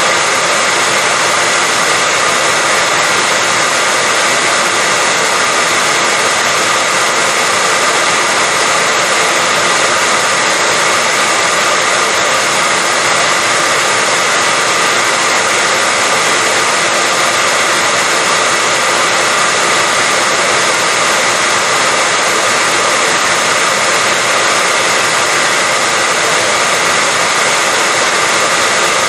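Electric hair dryer running continuously at a steady speed: an even rushing blow of air with a faint steady whine in it.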